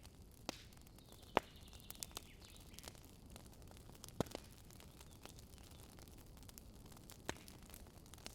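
Campfire burning with a handful of sharp, separate pops and cracks from the wood, the loudest about a second and a half in and another about four seconds in, over a low steady background. A faint high drawn-out sound runs between about one and three seconds in.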